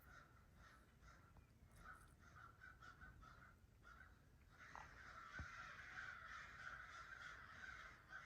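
Faint bird calls, scattered at first and thickening into steady chattering from about halfway in.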